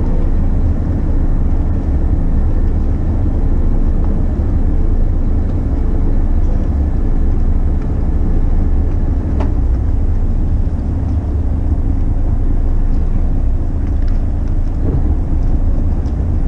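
Steady low rumble of a McKinna 65 motor yacht under way, its engines running at an even pace. A brief click sounds about nine and a half seconds in.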